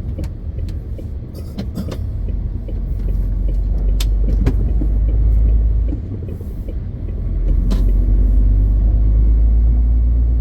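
MAN TGX 520 truck under way: a steady low engine and road rumble that grows louder, drops briefly about six seconds in, then rises again. A few sharp clicks sound over it.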